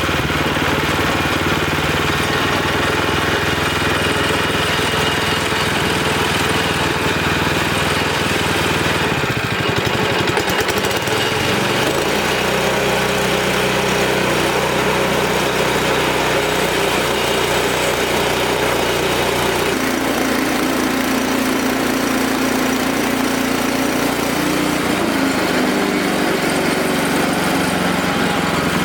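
Wood-Mizer LX25 band sawmill running on its engine. The engine note shifts in pitch about ten seconds in, again near twenty seconds and once more a few seconds later.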